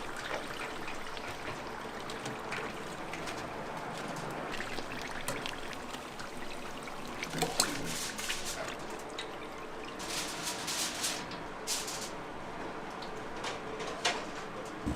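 Battered frogs deep-frying in hot oil: a steady sizzle with scattered crackles and pops, which come thicker about halfway through and again near the end.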